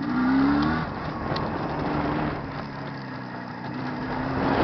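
Jawa 634's two-stroke twin engine, freshly rebuilt and being run in, running with a quick rev at the start, then holding steady and picking up again near the end.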